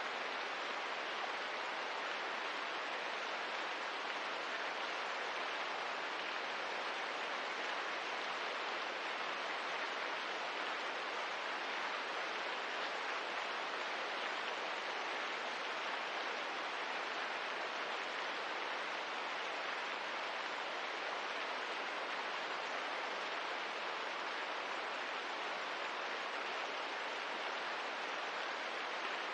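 Steady rain ambience: an even, unbroken hiss with no separate drops or crackles standing out.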